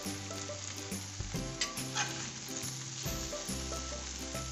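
Chicken kebab pieces coated in egg and masala sizzling in butter in a cast-iron skillet, with a few scrapes and taps of a metal spatula against the pan as the pieces are turned over, about a second and a half in.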